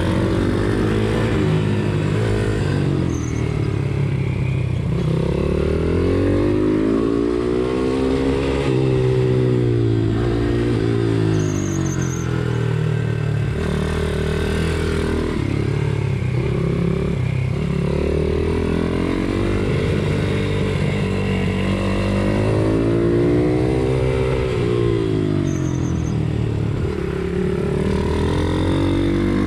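Pit bike's single-cylinder four-stroke engine under race riding, revs climbing and dropping again and again every few seconds as the throttle is opened and closed.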